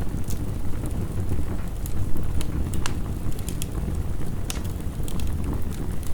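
Wood fire crackling, with scattered sharp pops and snaps over a steady low rumble of heavy rain.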